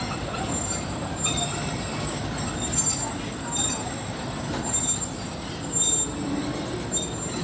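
Train wheels slipping on the rails: a steady rumble with a high, thin squeal that flares up in short bursts several times, roughly once a second.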